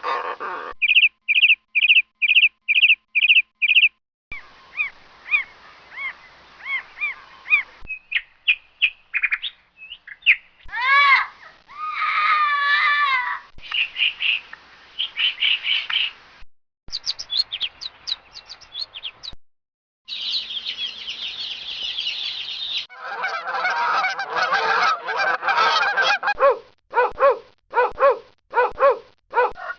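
A string of different bird calls played one after another: quick high chirps repeated about twice a second, gliding whistled calls, then a run of short, evenly spaced lower calls near the end.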